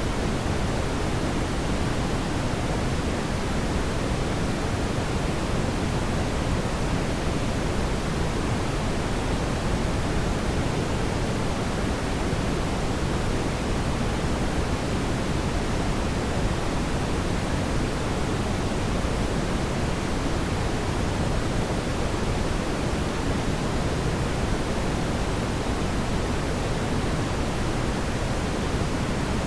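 Fire burning in a fireplace, heard as a steady, dense low hiss with no separate crackles or pops standing out.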